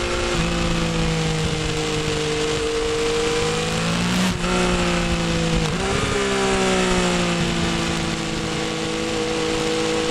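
A 2016 Yamaha FZ-09's 847 cc inline-three engine running through its stock exhaust while being ridden, at a steady note. The engine note shifts twice, about four and six seconds in.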